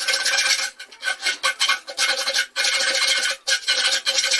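A cutting tool grinding steadily into the casing of a homemade safe, a harsh rasp with a steady ringing tone, stopping briefly a few times.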